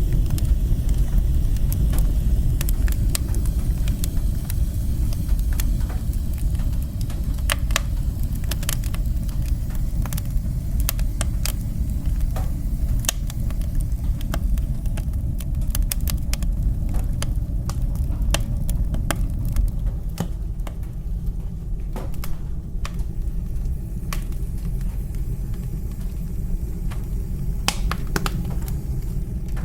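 Fire burning in a fireplace: a steady low rumble with scattered sharp crackles and pops, the crackles fewer in the second half.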